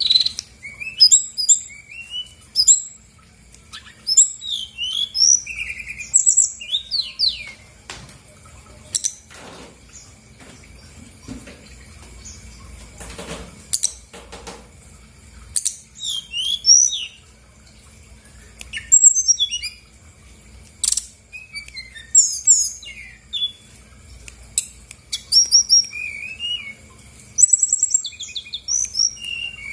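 Brown-chested jungle flycatcher singing in rapid bursts of high, twisting chirps and trills, with a lull of several seconds in the middle, when only a few dull knocks are heard.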